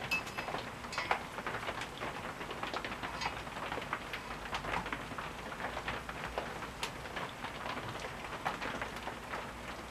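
Rain tapping as many scattered, irregular ticks.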